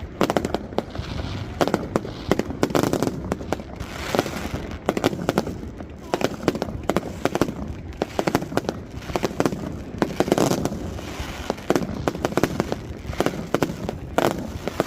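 Fireworks and firecrackers going off without let-up: many sharp bangs and crackles, overlapping one after another.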